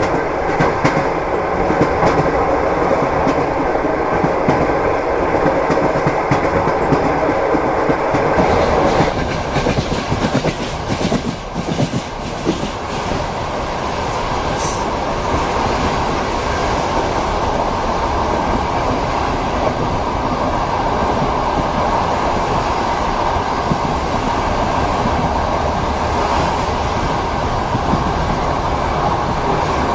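Train wheels rumbling and clacking over the rail joints, heard from inside a passenger compartment. About nine seconds in, a steady hum gives way to a rougher rattle with a run of clicks.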